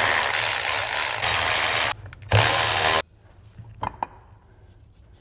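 A power tool running in two bursts, a long one ending about two seconds in and a short one about half a second later, undoing driveshaft bolts. A couple of faint clicks follow.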